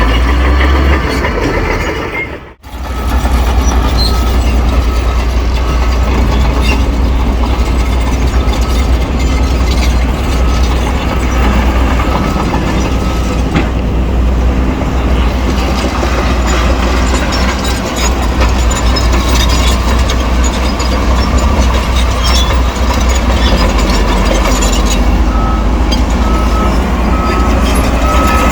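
Shantui crawler bulldozer's diesel engine running hard with the clatter of its steel tracks as it pushes soil. The sound cuts out briefly about two and a half seconds in. A high, evenly repeated beeping shows near the end.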